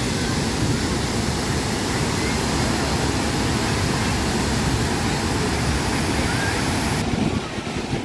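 Steady rush of falling water from a waterfall, an even, dense noise; about seven seconds in its higher hiss suddenly drops away.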